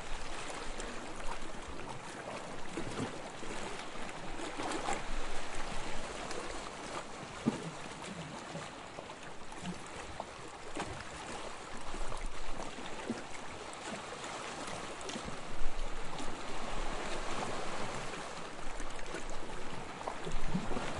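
Small waves lapping on a sandy shore: a steady wash with small splashes and trickling, swelling gently every few seconds.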